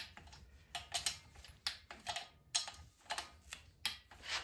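Wrench ratcheting and clicking on the cylinder head nuts of an air-cooled Volkswagen Beetle engine as their torque is re-checked: sharp metallic clicks at an irregular pace, a few each second.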